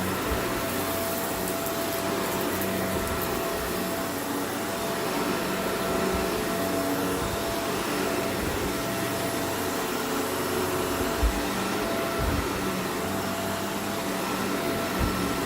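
Vacuum cleaner running steadily while it picks up dirt, with a spell of crackle from grit being sucked up about a second in and a few low bumps of the cleaner head.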